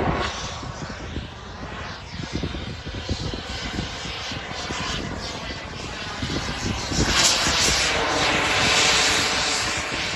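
Model jet's turbine engine running in flight, a steady rushing whine that rises and falls as the plane moves about, loudest as it comes closest about seven seconds in.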